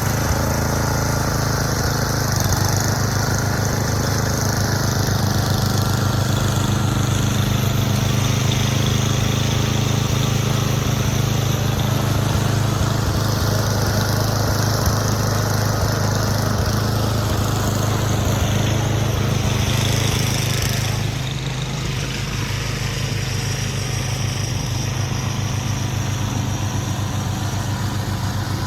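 Engine running steadily, dropping slightly in level and changing pitch about 21 seconds in.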